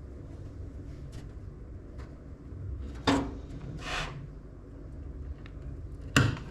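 Hands handling PC parts during assembly: two sharp knocks or clicks about three seconds apart, with a short rustling swish between them, over a low steady hum.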